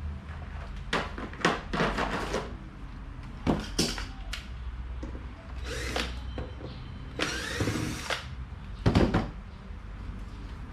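Workbench sounds of an electric fan being taken apart or reassembled: a string of sharp clicks, knocks and scrapes from handling tools and parts. About two thirds of the way through there is a whirr of about a second, rising in pitch, in the way of a power tool. A low steady hum runs underneath.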